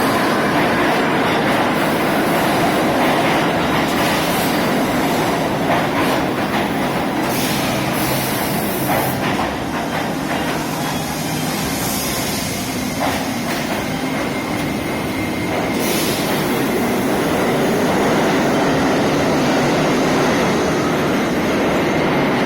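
R68 subway train moving through the station, a steady loud noise of steel wheels on rail with scattered clicks from the wheels passing over rail joints and a few brief high hissing or squealing bursts.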